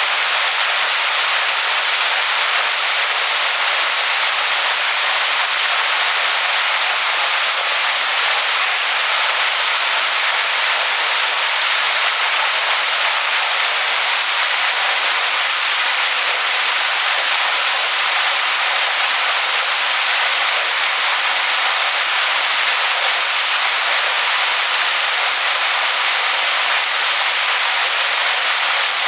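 Waterfall splashing onto rocks: a steady, unbroken hiss of falling water, bright and high, with little low rumble.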